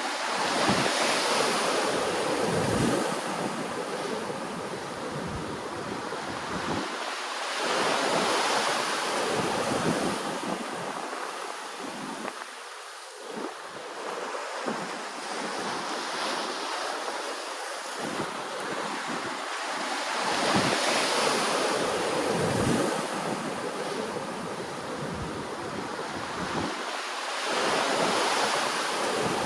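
Ocean waves washing in, the surge of water swelling and fading about every six to seven seconds.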